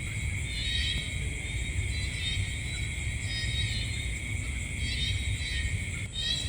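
Night insect chorus: steady high-pitched trilling with repeated chirping calls about once a second, over a low steady rumble.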